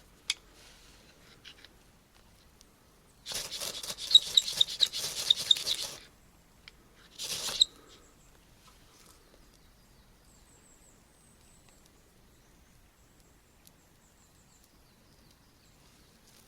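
Ferro rod scraped hard against a striker several times in quick succession, a rasping hiss for nearly three seconds from about three seconds in, then one short scrape a second later, throwing sparks onto hay and fat wood to light a campfire.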